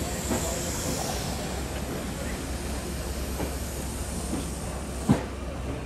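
Caledonian Sleeper coaches rolling slowly past along the platform, their wheels knocking and clicking over the rail joints, with a steady low hum beneath and one sharp knock about five seconds in.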